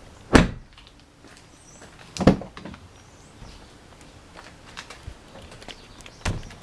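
Three dull thumps, the second about two seconds after the first and the third about four seconds later, with light clicks and rattles between them. These are handling knocks as objects and the camera are moved and set down.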